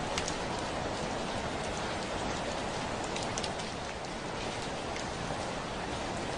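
Steady heavy rain falling on a window, a constant hiss with scattered sharper taps of single drops.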